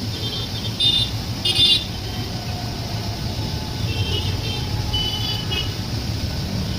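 Running train, a steady low rumble, with two short high-pitched tones about a second and a second and a half in and fainter ones later.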